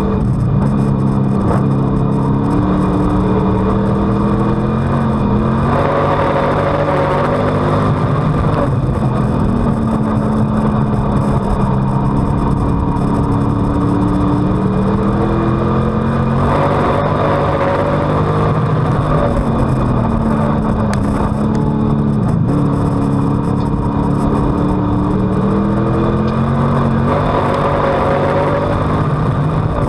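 On-board sound of a WISSOTA street stock's V8 race engine at racing speed on a dirt oval. The engine note climbs as it accelerates, then drops back as it lifts off, in repeating cycles about every ten seconds, lap after lap.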